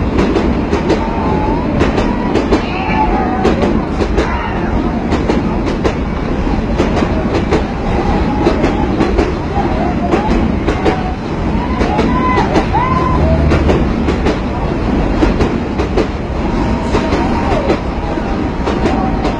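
Train running along the track: a steady rumble with wheels clacking over the rail joints.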